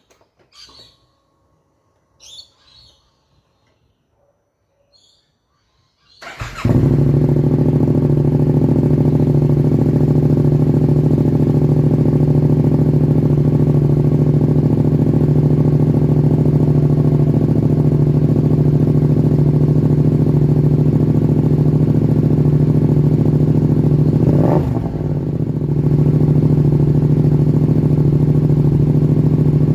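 2025 Yamaha MT-07's parallel-twin engine starting about six seconds in, then idling steadily through a full Vandemon titanium exhaust, with a quick throttle blip near the end and another just as the sound cuts off. Before the start, only a few faint clicks.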